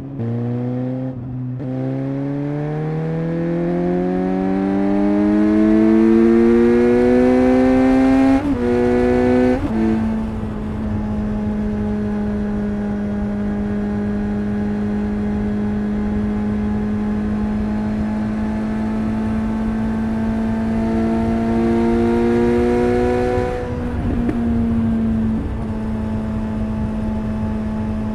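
Suzuki GSX-S 750 inline-four engine and exhaust under way: it pulls for several seconds with the pitch rising steadily, then drops twice in quick succession as it shifts up, and settles to a steady cruise. Near the end the throttle eases off briefly and it settles again.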